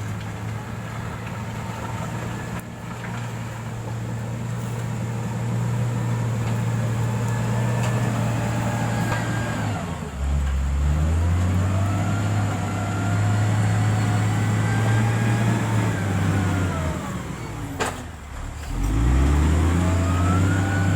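Motor grader's diesel engine running under load. The revs drop and climb again twice, about halfway through and near the end, with a whine that rises and falls along with the engine.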